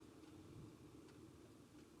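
Near silence: a faint low hum of room tone.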